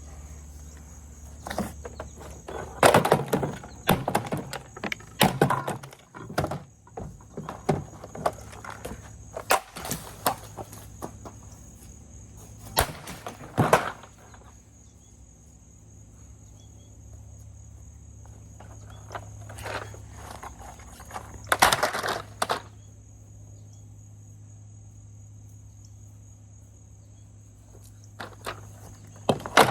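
A small axe striking the plastic body of a vacuum cleaner in a series of heavy, sharp blows, several in quick succession in the first half and another cluster about 22 s in.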